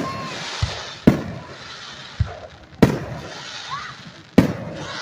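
Fireworks display: aerial shells bursting with sharp bangs, three loud ones about a second apart and a half, each trailing off in a hissing crackle and echo, with quieter low thumps between them.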